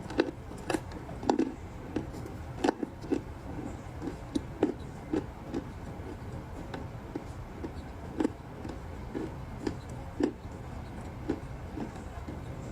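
Ice balls being chewed and crunched in the mouth close to the microphone: a steady run of short, sharp crunches with a louder one every second or so.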